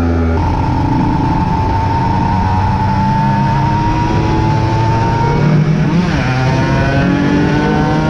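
Aprilia RS 125 motorcycle engine under hard acceleration: a gear change just after the start, then the engine note climbing slowly in one gear, with another gear change about six seconds in.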